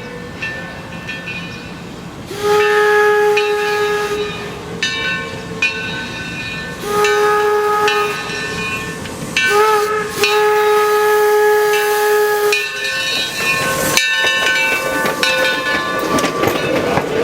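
Steam whistle of the Calumet & Hecla 0-6-4T tank locomotive No. 3 "Torch Lake" blowing four blasts, long, long, short, long: the grade-crossing signal. Between and after the blasts come the hiss and running sounds of the train.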